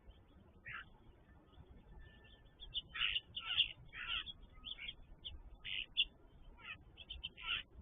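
Birds calling: a dozen or so short calls in irregular succession, loudest a few seconds in and again near the end.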